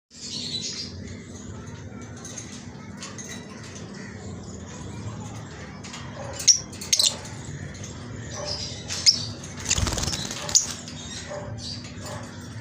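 Lovebirds giving short high chirps, with a few sharp clicks and a brief burst of wing flapping about ten seconds in.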